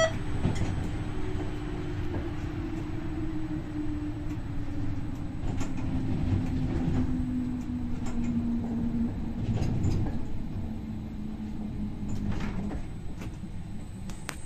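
MI84 electric multiple unit running along the track, heard from the driver's cab: wheel-and-rail rumble with a motor whine that slowly falls in pitch over about twelve seconds as the train slows, and a few scattered knocks from the running gear.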